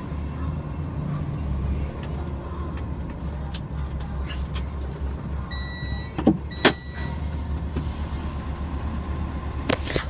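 Low, steady rumble of a passing freight train, with a couple of sharp knocks of the camera being handled about six seconds in and again near the end.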